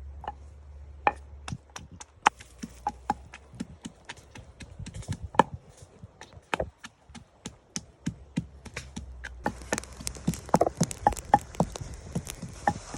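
An irregular run of sharp knocks and taps, about two to four a second, with a steady hiss joining in about two-thirds of the way through.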